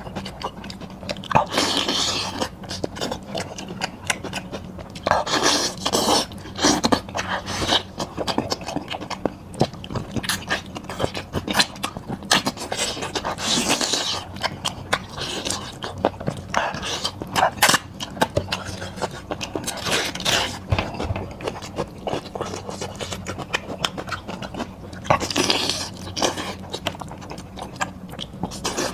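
Close-miked eating of goat head meat: continual chewing and wet mouth noises, broken by frequent short, sharp bursts of sound.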